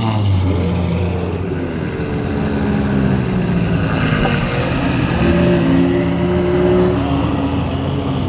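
Several car engines running at once in slow-moving traffic, their pitches shifting up and down as the cars creep forward.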